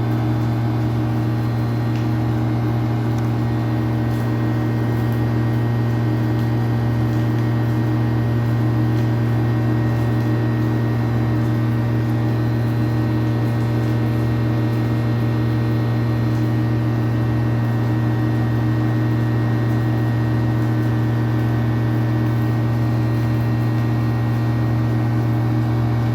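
A steady machine hum, made of a strong low tone with several higher tones above it, holding at one level without change.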